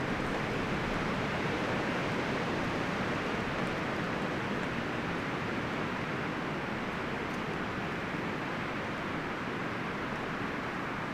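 Wind blowing through forest trees, rustling the leaves and branches: a steady, even rush with no distinct events.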